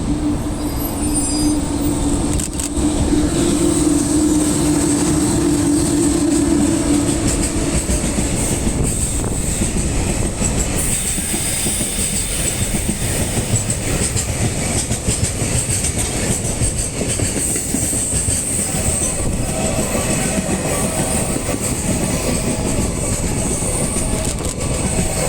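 Freight train hauled by an EH500 electric locomotive with Koki container flat wagons passing close by at speed: continuous loud rumble of wheels on rail with clickety-clack over the rail joints. A steady hum sounds in the first eight seconds or so, and a few higher steady tones come in near the end.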